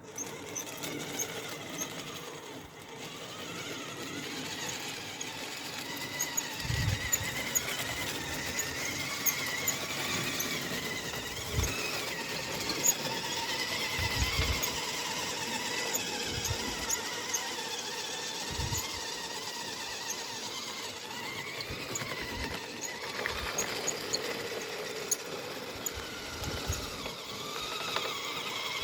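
Kyosho Blizzard 2.0 radio-controlled snowcat's electric motor and gear drive whining, the pitch rising and falling as the throttle changes. Occasional low thumps come through underneath.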